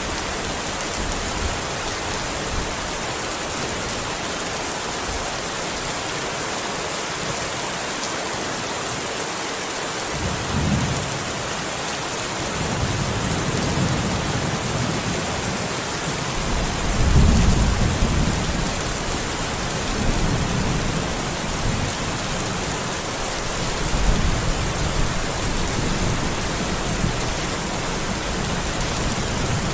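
Steady, heavy rain hissing, with a low rumble of thunder that builds about a third of the way in, is loudest around the middle, and rolls on in waves before fading.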